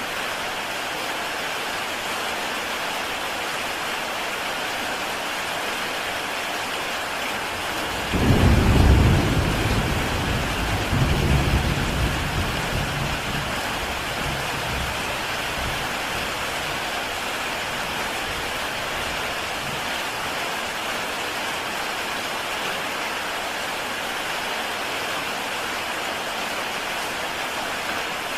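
Heavy rain falling steadily on a tile roof. About eight seconds in, a roll of thunder breaks in suddenly, swells a second time a few seconds later and rumbles away.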